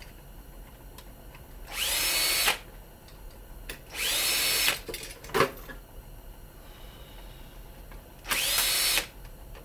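Power drill-driver run in three short bursts, each a whine that rises in pitch as the motor spins up and then holds. A sharp click comes between the second and third bursts.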